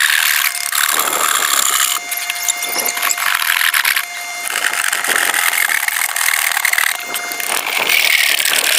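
Electric power tool cutting wood for a speaker cabinet, its high motor whine dipping and rising as the cut loads it. The sound breaks off abruptly and restarts every couple of seconds.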